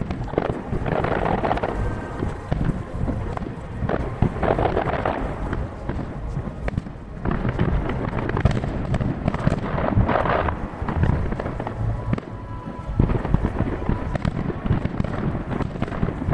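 Aerial fireworks shells bursting in rapid succession, with dense booms over a continuous low rumble. Swells of crackling come about a second in, again around four seconds and again near ten seconds. Played back at three times speed, so the bursts crowd together.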